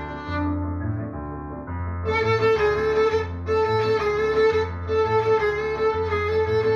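A violin playing a melody with accompaniment. From about two seconds in it holds long high notes over a regular low beat.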